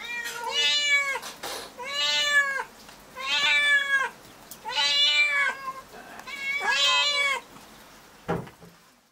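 A cat meowing over and over: about five long meows, one every second and a half or so, each rising then falling in pitch. A short knock follows near the end.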